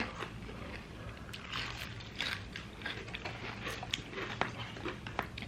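Close-up chewing and biting of crispy fried chicken: irregular small crunches and crackles.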